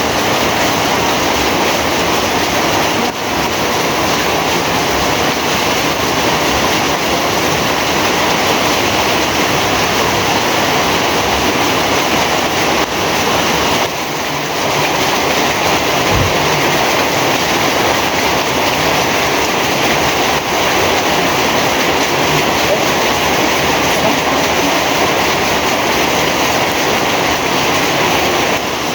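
Heavy rain falling, a steady dense hiss with no let-up. About halfway through there is a single brief low thump.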